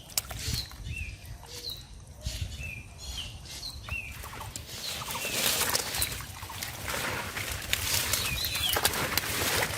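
A bird repeats a short, falling chirp about once a second, over splashing water and rustling plants. Near the end the chirps fade out and the splashing and rustling grow louder.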